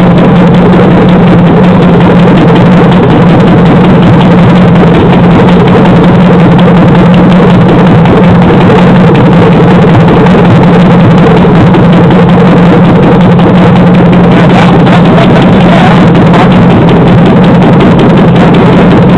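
Loud, steady running of a 2007 LH6 5.3L V8 with the passenger-side valve cover off, the rocker arms exposed, and fast valvetrain clatter. Through it runs the lifter tick from the number 4 lifter, an AFM (DOD) lifter that is locked down, a common fault on these engines.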